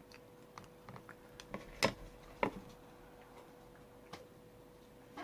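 Light, irregular clicks and taps, about eight in all, the loudest near two seconds in, over a faint steady hum.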